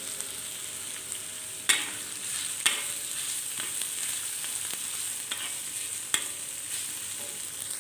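Ginger, garlic and red onion sizzling in hot oil in a wok as they are sautéed toward golden brown. A metal spatula stirs through them, with several sharp clinks against the wok over the steady hiss.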